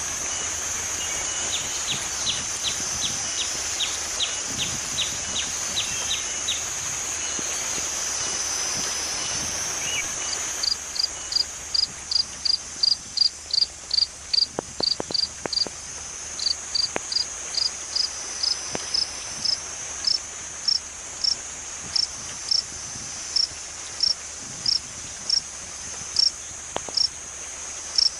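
Night insect chorus: a steady high-pitched trill throughout, with a quick run of chirps in the first few seconds. From about ten seconds in, a louder, single repeated chirp comes in about twice a second and slowly spaces out.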